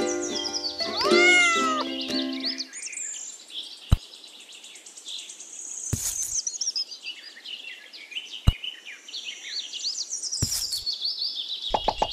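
Ukulele background music with a single meow rising and falling in pitch, the music stopping about two and a half seconds in. Then high, twittering chirps like birdsong, with four sharp clicks spaced a couple of seconds apart.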